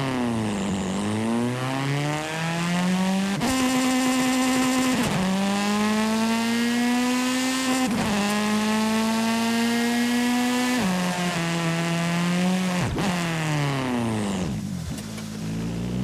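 Simulated car engine in a driving video game, accelerating and shifting up through the gears: the engine note climbs, drops back at each shift about every two to three seconds, then falls away as the car slows near the end.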